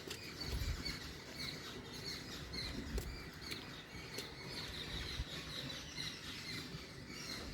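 Many short, high chirping calls repeating throughout, with a few sharp clicks and some low bumps near the start.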